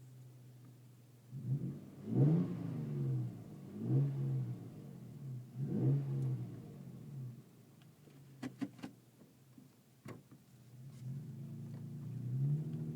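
Toyota Tacoma's engine and Wicked Flows aftermarket exhaust heard from inside the cab. It idles low, then rises in pitch three times about two seconds apart as it accelerates or revs, and rises again near the end. A few sharp clicks come in the quieter stretch around the middle.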